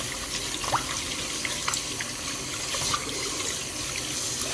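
Kitchen tap running into a sink while raw chicken thighs are rinsed under it, with a steady stream and small splashes and knocks as the pieces are handled.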